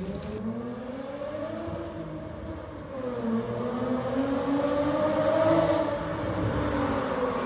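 BMW E46 coupe's straight-six running straight-piped with no catalytic converter, pulling hard: its pitch rises, dips about three seconds in, climbs again to a peak, then falls away near the end.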